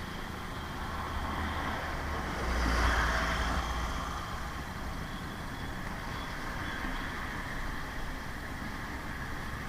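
Road traffic noise: a steady rumble of vehicles, with one passing by more loudly about two and a half to four seconds in.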